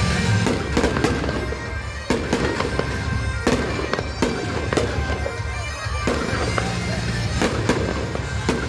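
Fireworks going off, about a dozen sharp bangs and crackles, over loud music with a steady low drone.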